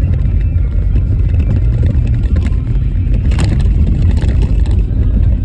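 Car driving over a rough, snow-covered road: a steady, loud, low rumble of tyres and suspension, with a few sharp knocks from jolts over the bumpy surface between about two and three and a half seconds in.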